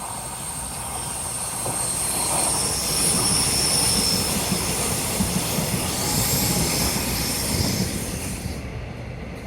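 Taiwan Railway EMU500 commuter electric multiple unit passing through a tight S-curve, its wheels squealing high-pitched against the rails over the rumble of the train. It grows louder towards the middle, and the squeal cuts off about eight and a half seconds in as the train clears.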